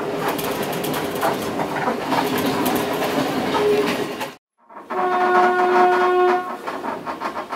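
Train running noise heard inside a passenger carriage, a steady rumble with the clatter of wheels over the rails. It cuts off abruptly about four and a half seconds in, and a train horn then sounds one steady note for about a second and a half.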